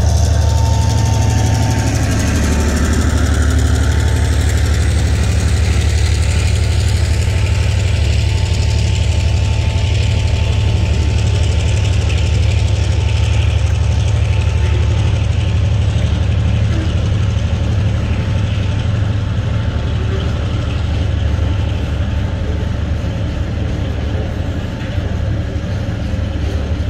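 TasRail diesel freight train passing: the trailing TR-class locomotive's engine at first, then a loud, steady rumble of container wagons rolling over the rails.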